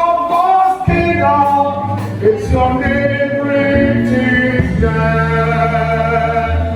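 A gospel hymn sung by voices with musical accompaniment, held low bass notes under the sung melody.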